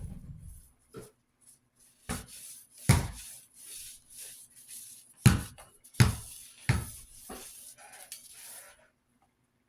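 Metal desk-fan guard being handled and cleaned: a string of sharp knocks with hissing rubbing and scrubbing between them, which stop a little before the end.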